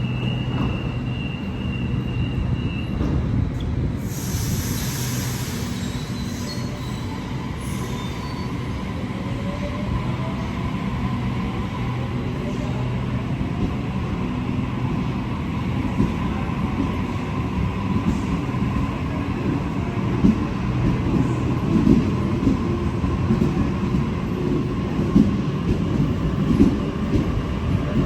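Electric suburban train moving through the station. A short hiss of air comes about four seconds in, then a rising motor whine and wheel squeal. Clattering wheels grow louder toward the end.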